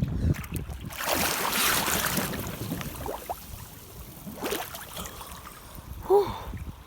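Water splashing and sloshing in a swimming pool as a person moves into the water, in two noisy surges, the first and longest about a second in. A brief vocal sound near the end.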